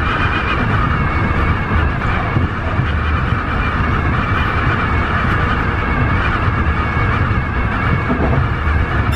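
Tobu 50090 series electric train running at speed: a steady rumble of wheels on rail and running noise, level and unbroken.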